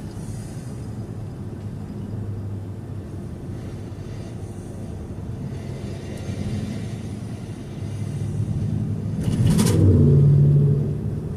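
Car on the road: steady low engine and road rumble. Near the end comes a short rush of noise, then a low hum for about a second, the loudest part.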